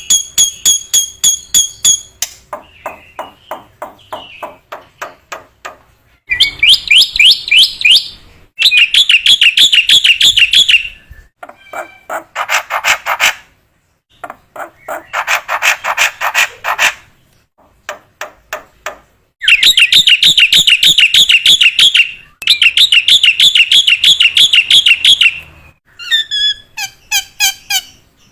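Black-winged starling (jalak putih) singing: runs of rapid, quieter chattering notes, then loud, fast-warbling trilled phrases lasting two to three seconds each, with short pauses between them.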